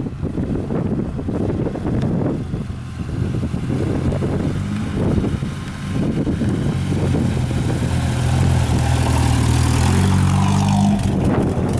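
UAZ off-road vehicle's engine running under load. It grows louder from about halfway, and its pitch climbs near the end as it revs up.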